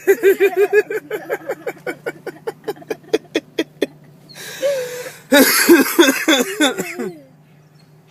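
A man laughing hard in quick rapid bursts that trail off into wheezing breaths, then a second loud fit of laughter about five seconds in that dies away near the end.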